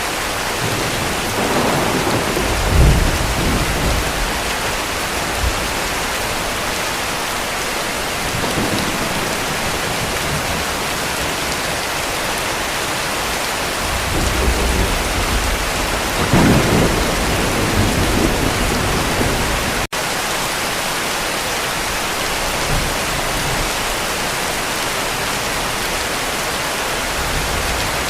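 Steady heavy rain with two rolls of distant thunder, one starting about two seconds in and a longer one from about halfway through. The sound cuts out for a split second about two-thirds of the way through.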